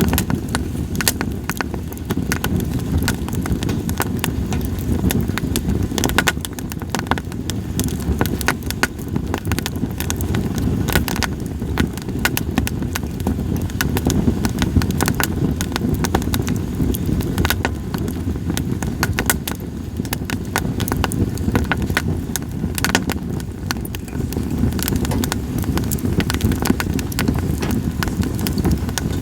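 Campfire of split sawtooth oak (kunugi) logs crackling, with frequent sharp pops scattered irregularly throughout over a steady low rumble.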